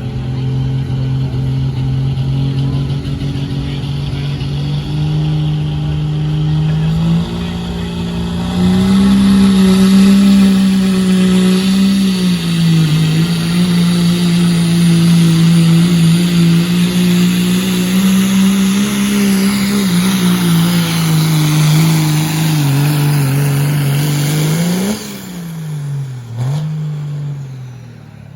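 Diesel pickup truck with a 2.6-inch smoothbore turbo, engine held at high revs under load on a pull. The pitch climbs about eight seconds in and wavers, then drops sharply near the end as the throttle comes off, followed by two short revs.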